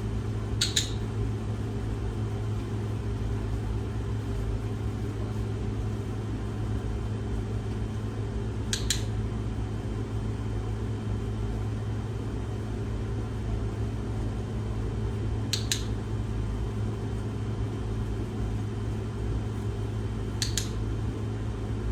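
A steady low hum, like a running fan or motor, with four short, sharp double clicks spread several seconds apart.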